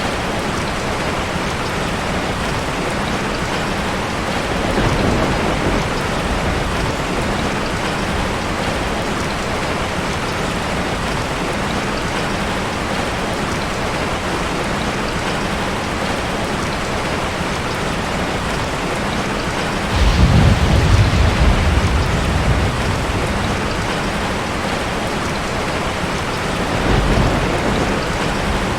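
Steady rain with rolls of low thunder: a faint one about five seconds in, a louder one that starts suddenly about twenty seconds in and rumbles for a few seconds, and another short one near the end.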